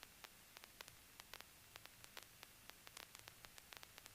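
Near silence: a faint hiss of electrical static with scattered, irregular crackling clicks.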